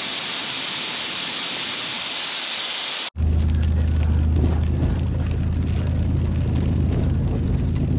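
A steady hiss, then an abrupt cut about three seconds in to a truck engine's steady low drone heard from inside the cab.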